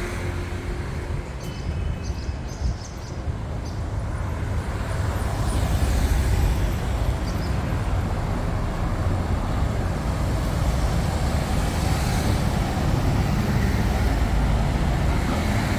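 Steady rumble of road traffic passing along a busy street, swelling about five seconds in as vehicles go by.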